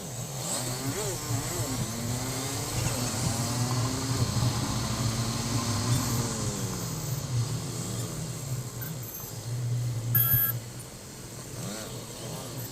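Motorcycle engine running in road traffic, with engine tones rising and falling in pitch. There is a short, loud sound about ten seconds in.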